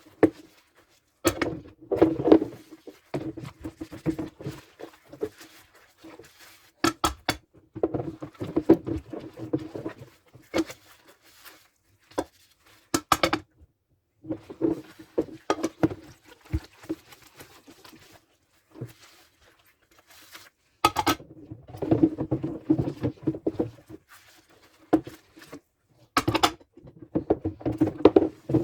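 Dishes being washed by hand in a sink: irregular bursts of scrubbing and rubbing broken by sharp clinks and knocks of dishes, with short pauses in between.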